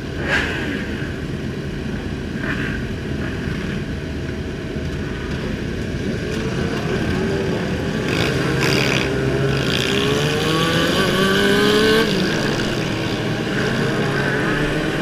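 Motorcycle engines running in street traffic, one rising steadily in pitch as it accelerates over several seconds before dropping off about twelve seconds in.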